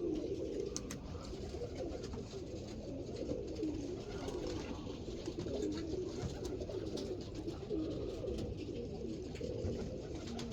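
Several domestic pigeons cooing steadily and overlapping, a continuous low warbling chorus.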